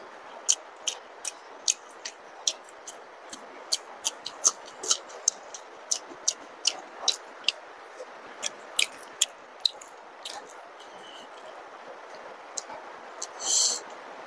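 Close-miked chewing of soft luchi and potato-paneer curry: a run of sharp, wet mouth smacks, two or three a second, thinning out after about ten seconds. A short, louder burst comes near the end.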